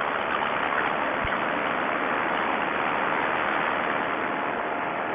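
Vittorazi Moster 185 single-cylinder two-stroke paramotor engine running steadily in flight, heard as an even drone mixed with rushing noise. The pilot thinks the rebuilt engine's carburettor may still be set a little rich.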